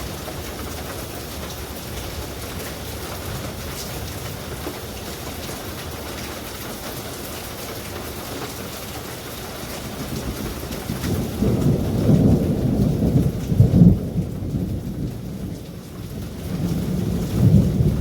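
Steady rain with thunder. A low rumble builds about ten seconds in, peaks and eases off, and a second roll of thunder comes near the end.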